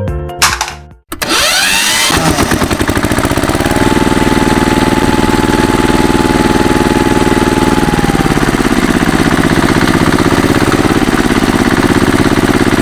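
A small engine winds up as it starts about a second in, then runs steadily with a fast, even chug. Its pitch drops a little about two-thirds of the way through.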